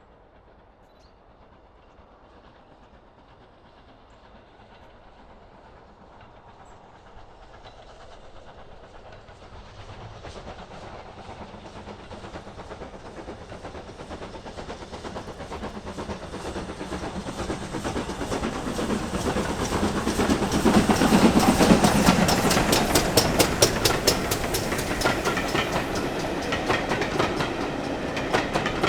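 A train approaching and passing close, growing steadily louder over about twenty seconds, then a rapid, even clickety-clack of its wheels over the rail joints as the carriages go by.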